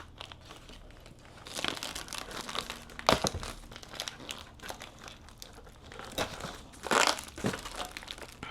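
Plastic crinkling and rustling as parts are handled, in uneven bursts, with a sharp knock about three seconds in and a louder rustle near seven seconds.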